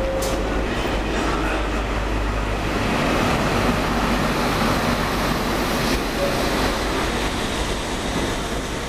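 Steam-hauled train running through a station: a steady rumble and rush of wheels on rails that eases slightly near the end.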